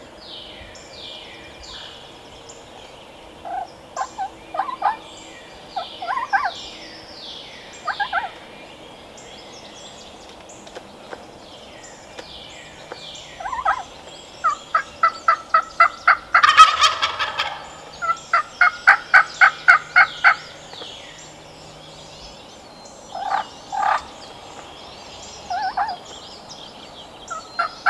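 Wild turkeys gobbling and calling repeatedly. Near the middle come two runs of fast, evenly spaced yelping notes, about five a second, with a loud rough burst between them.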